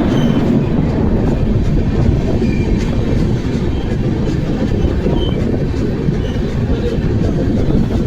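Amrit Bharat Express train running at speed: a steady loud rumble of the coach on the rails, with faint clicks of the wheels passing over rail joints.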